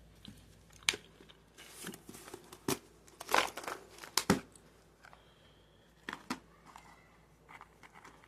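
Plastic snack packet of Dukes Nibbles biscuits being handled and crinkled, with irregular sharp crackles and rustles. The loudest burst of crinkling comes about three to four and a half seconds in.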